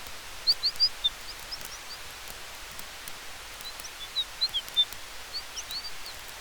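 Small birds twittering in two short bursts of quick chirps, about half a second in and again around four seconds in, over a steady hiss with faint crackling from a campfire.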